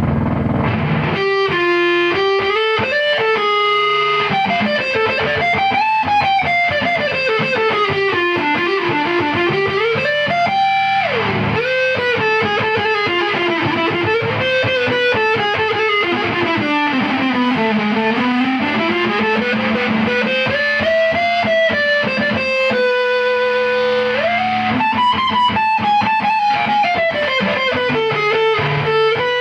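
Squier Jazzmaster electric guitar on its neck pickup, played through a triple fuzz pedal: a sustained, distorted lead line whose pitch glides smoothly up and down over a held low note. It pauses briefly about eleven seconds in and holds one steady note for about a second around twenty-three seconds in.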